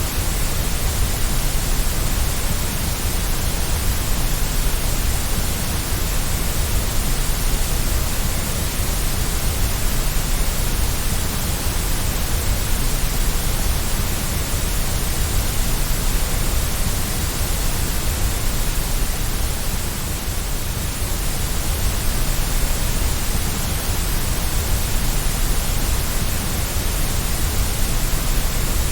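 Steady white noise: an even, unbroken hiss with a deep low rumble beneath it, played for soothing a baby to sleep.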